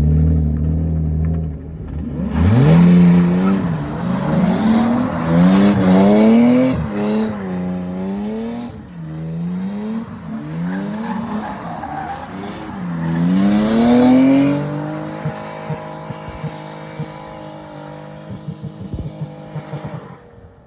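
2003 Nissan 350Z's 3.5-litre V6 revving hard, its pitch rising and falling about six times, with tyre squeal and skidding noise over it as the car is pushed for a drift. About fifteen seconds in it settles to a steady, slowly falling drone.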